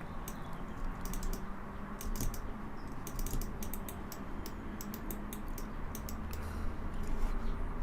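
Computer keyboard keys pressed in short, irregular clusters of clicks, as keyboard shortcuts are entered, over a steady low hum.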